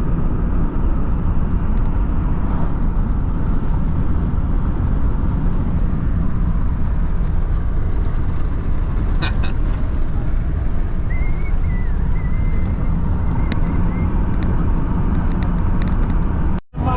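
Steady road and engine noise of a vehicle travelling at speed, a low, even rumble. It drops out briefly near the end.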